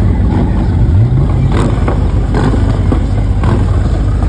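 Car engine rumbling, revving up with a rising pitch about a second in, with several short sharp cracks through the middle.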